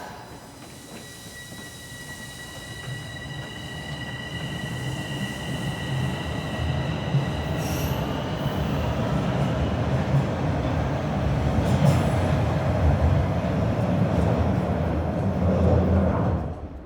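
Toronto subway train running on the Sheppard line, with a steady high-pitched wheel squeal in the first half over the rumble of wheels and motors. The rumble grows steadily louder and then cuts off abruptly near the end.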